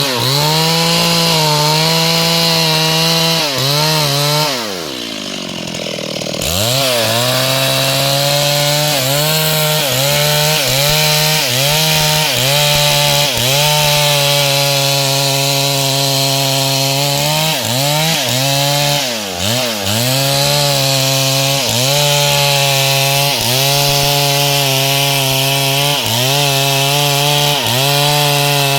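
Gasoline chainsaw cutting wood at high revs, its pitch dipping briefly again and again as the chain bites into the log. About five seconds in the engine drops sharply in pitch and loudness, then revs back up and keeps cutting.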